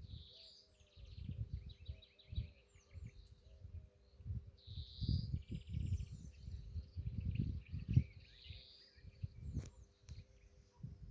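Nightingale singing: phrases of rapid repeated notes and trills alternating with short swelling whistles, several phrases in a row. Under the song runs a louder, irregular low rumble, like wind buffeting the microphone.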